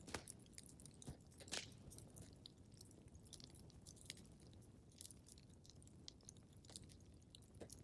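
Wood fire crackling softly: irregular sharp pops and snaps over a low steady hiss, with the louder pops just after the start and about a second and a half in.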